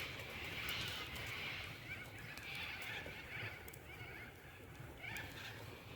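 Campfire crackling, with scattered sharp pops and clicks from the burning wood.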